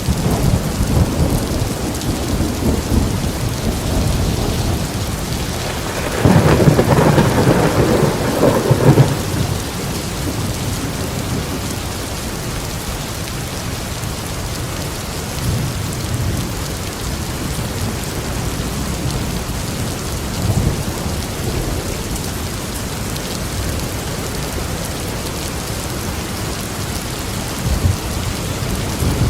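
Steady heavy rain with rolling thunder: a loud rumble swells about six seconds in and fades after about three seconds, with fainter low rumbles later on.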